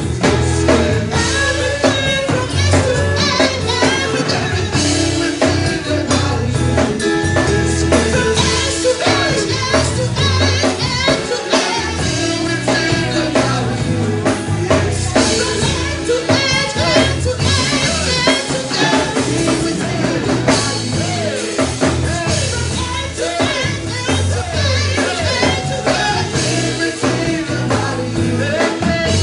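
Live worship band playing with singing over a drum kit and bass, the song carrying on steadily.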